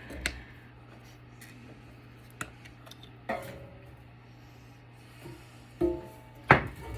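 Scattered clinks and knocks of metal parts and tools being handled while a battery backup is taken apart, a few of them ringing briefly; the sharpest knock comes near the end.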